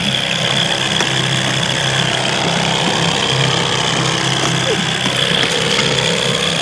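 Boat motor running steadily at trolling speed, an even low hum.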